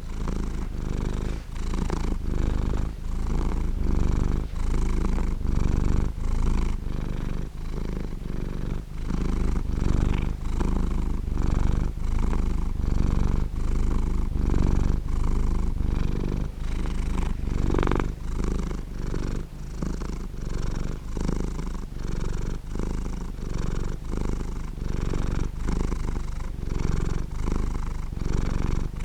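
Domestic cat purring: a low, continuous rumble that swells and dips in an even rhythm with each breath in and out.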